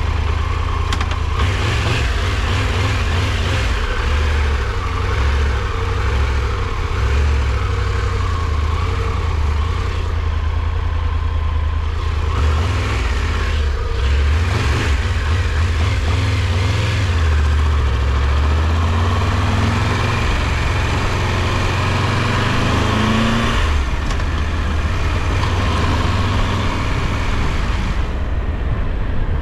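Triumph Tiger 1200 Rally Pro's inline three-cylinder engine running while under way, mixed with heavy wind buffeting on the microphone. The engine pitch rises and falls a little about twenty seconds in.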